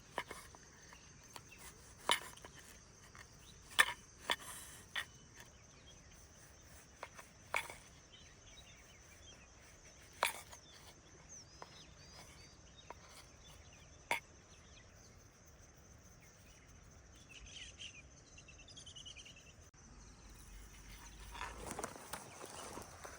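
Steady high-pitched drone of forest insects, with scattered sharp knocks and clicks of something being handled close by. A few short bird-like chirps come past the middle, and footsteps start near the end.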